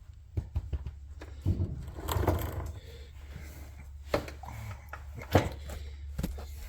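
Scattered clicks, knocks and rustling of hand work on metal and plastic parts, with two sharp knocks near the end, over a steady low hum.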